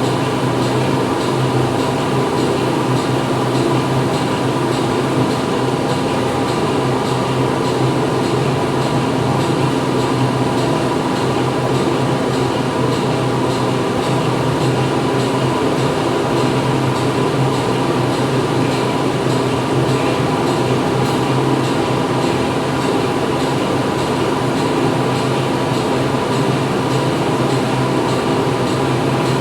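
Steady factory machinery din: many machines running together, with a constant low hum and several steady tones over a dense mechanical noise.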